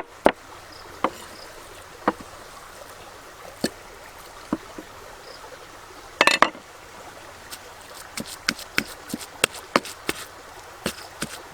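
Sharp knocks and taps, spaced out at first, with a short cluster of hits about six seconds in, then coming faster and closer together over a steady faint hiss.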